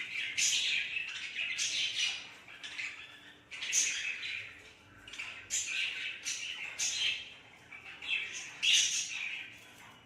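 A budgie chirping and squawking in rapid, scratchy bursts, with short pauses between runs.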